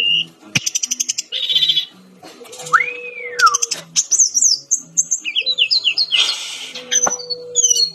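Brown-chested jungle flycatcher singing a varied song: fast buzzy trills, one whistle that rises and falls, and runs of quick falling chirps. Two sharp clicks sound, one early and one near the end.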